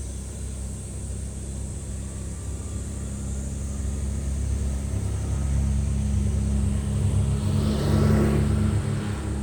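A motor vehicle drawing near and passing close, its low engine rumble growing louder and peaking near the end.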